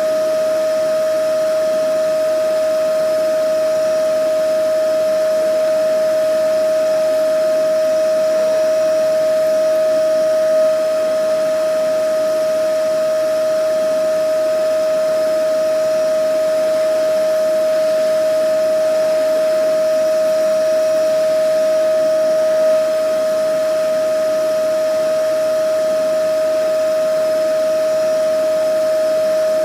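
Vacuum cleaner motor running steadily: a high, even whine over a rushing hiss of air.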